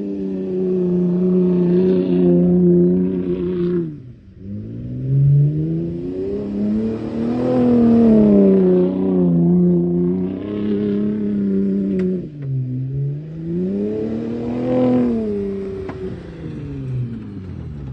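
Ford Raptor pickup's engine and exhaust. The note holds steady, drops sharply about four seconds in, then rises and falls back twice, as the engine is revved or the truck accelerates and eases off.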